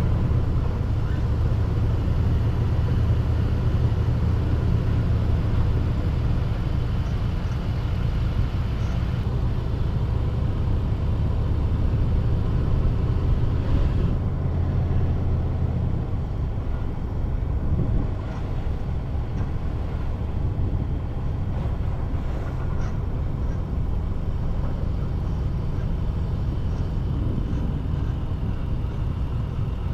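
A car driving: steady engine and road rumble, which eases off a little about halfway through.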